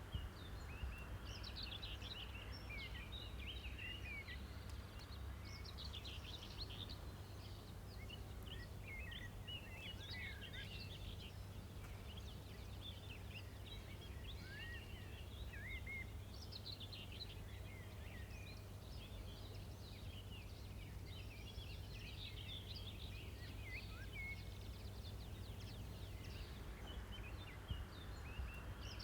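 Several birds chirping and twittering continuously over a faint, steady low rumble of outdoor ambience.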